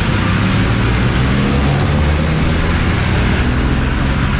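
Steady, loud wind and road rumble on a camera microphone riding on a Kaabo Wolf King 72V electric scooter at speed.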